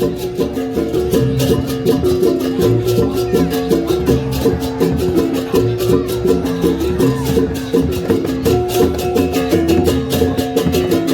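Balinese gamelan processional music: fast, steady clashing of small cymbals over ringing pitched gongs playing a quick, repeating pattern.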